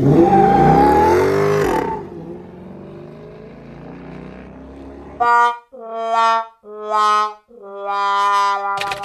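A car engine revving hard for about two seconds, its pitch sweeping up and down, then dropping back to a lower background. From about five seconds in, four brass-like horn notes of different pitches sound one after another, each held for half a second to a second.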